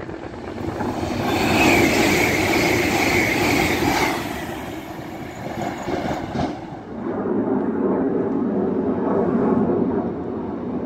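A high-speed passenger train runs through the station at speed with a loud rush of wheel and air noise that peaks in the first few seconds and then dies away. From about seven seconds in, a lower rumble from the next train builds.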